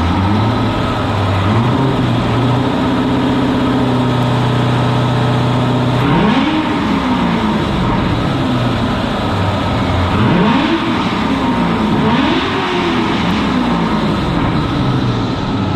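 2002 Corvette Z06's LS6 V8, fitted with a FAST 92 intake and Kooks long-tube headers, being revved in place: the revs climb and hold raised for about four seconds, then drop, followed by three quick throttle blips that each fall back to idle.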